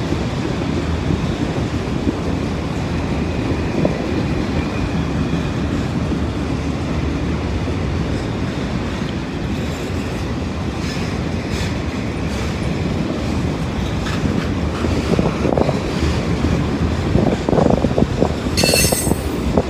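Freight train cars rolling past close by: a steady rumble of steel wheels on rail, with scattered clicks and heavier knocks of wheels over rail joints in the second half. A brief high-pitched wheel squeal comes near the end.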